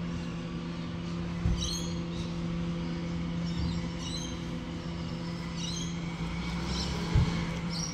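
A steady low engine hum, as of a vehicle idling, with a bird chirping in short repeated bursts over it. Two dull thumps, about a second and a half in and near the end, are the loudest sounds.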